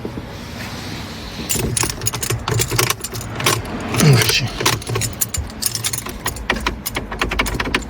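A bunch of keys jangling and clicking in quick, irregular rattles, starting about a second and a half in.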